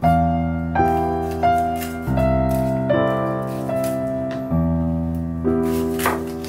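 Soft piano music playing slow, held notes. Under it come a few crisp knife cuts through a red bell pepper on a wooden cutting board, the clearest about six seconds in.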